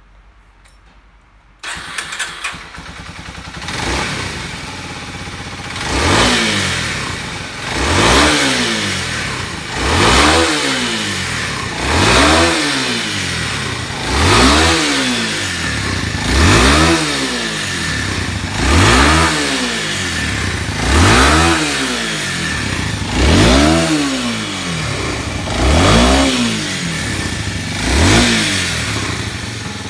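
Kawasaki Super Sherpa's single-cylinder 250 cc four-stroke engine starting about a second and a half in, catching after a few stutters, then blipped with the throttle about a dozen times, every two seconds or so, pitch rising and falling each time, idling steadily in between.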